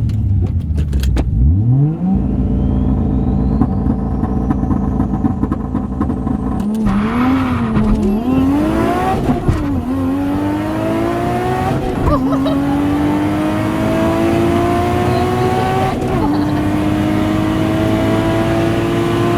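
Nissan 180SX's RB25DET turbocharged straight-six, heard from inside the cabin, revved and held at steady revs on the launch limiter. About seven seconds in it launches at full throttle and the revs climb in long pulls, broken by three upshifts, as it runs down the drag strip.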